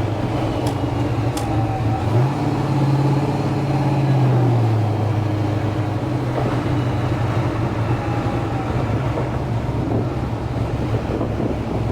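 Supercharged 427 cubic-inch LSX V8 of a 1991 GMC Syclone pickup running under way, a steady drone. Its pitch rises about two seconds in, holds for a couple of seconds, and settles back down.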